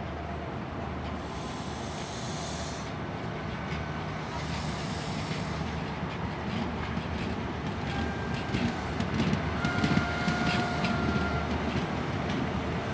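High Speed Train pulling out, its Class 43 diesel power car running steadily and slowly getting louder. A run of clicks from the wheels crossing rail joints comes in the second half.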